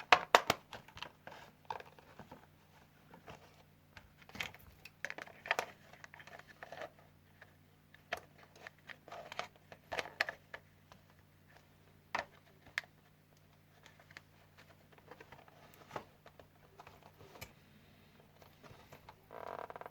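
Hands handling and fitting the parts of an LED ceiling lamp being reassembled: irregular small clicks, scrapes and rustles, in short bursts with pauses between.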